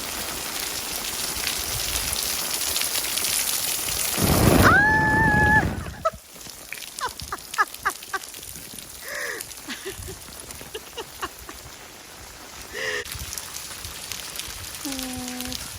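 Heavy rain pouring down, a loud steady hiss that swells and then drops off sharply about six seconds in. After that, lighter drips and patter with scattered ticks. A short high-pitched cry sounds just before the drop, and a few brief chirps follow.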